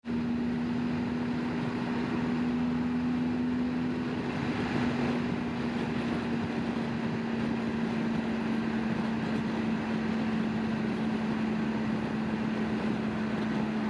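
BMW GS Adventure motorcycle's boxer-twin engine running at a steady speed under way, with an even rush of road and wind noise.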